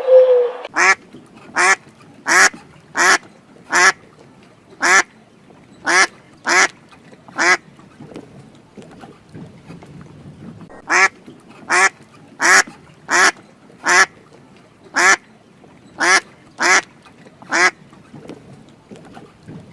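Domestic duck quacking: two runs of about nine short, harsh quacks, with a pause of a few seconds between them.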